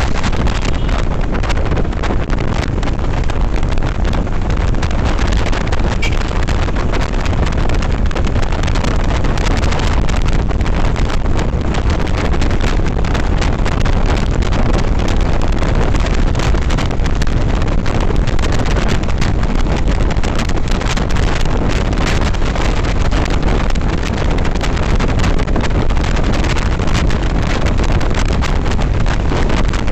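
Steady wind rushing over the microphone of a motorcycle on the move, with the bike's running and road noise underneath.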